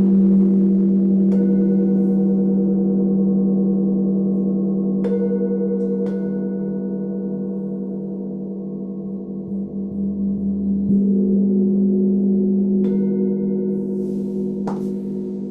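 Meditation sound bowls ringing: a deep, wavering low hum that slowly fades, renewed by a fresh low strike about eleven seconds in. Several lighter strikes add higher ringing tones that die away over a second or two.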